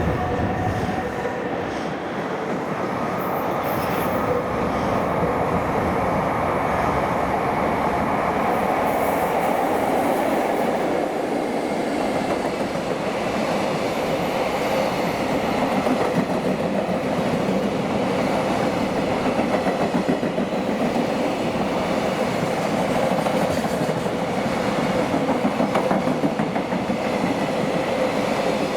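Freight train hauled by an EF66 electric locomotive rolling past, its wagons' wheels clattering steadily over the rail joints, with the rhythmic clatter growing stronger in places.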